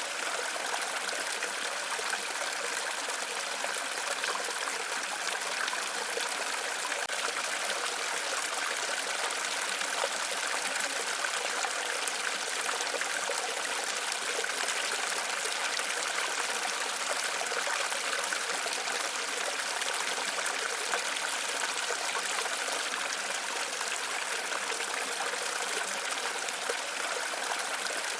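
Waterfall: a steady, even rush of falling water with little deep rumble, unchanging throughout.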